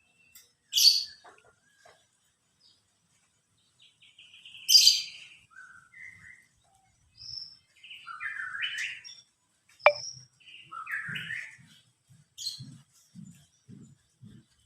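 Caged songbird calling: scattered sharp chirps and short whistled phrases, loudest about one and five seconds in, with one quick falling whistle about ten seconds in.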